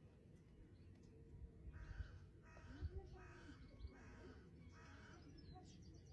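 A bird calling faintly, about five harsh calls in a row roughly half a second apart, with quick high chirps near the end, over a low steady rumble.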